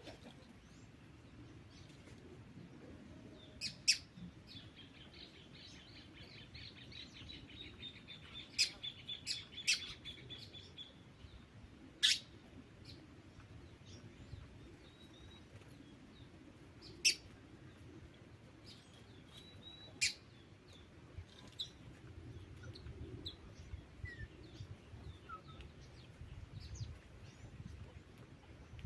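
Small birds calling: a fast, high, even trill lasting several seconds, a handful of sharp, loud single chirps, and scattered soft chirps over a low background rumble.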